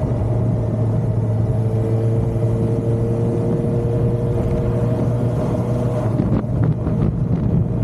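Suzuki GSR750's inline-four engine running at a steady cruise, with wind noise on the microphone. About six seconds in the steady engine note breaks up and short gusts of wind buffeting come through.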